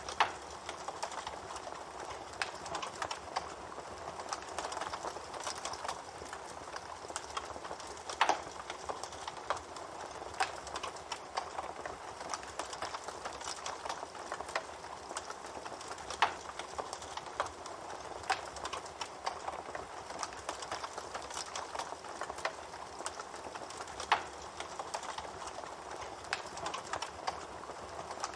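Wood bonfire burning: constant crackling over a soft hiss, with four louder pops spaced about eight seconds apart.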